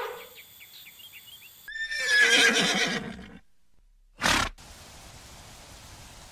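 A horse whinnying about two seconds in, a high wavering neigh lasting about a second and a half. A brief sharp burst follows a second later.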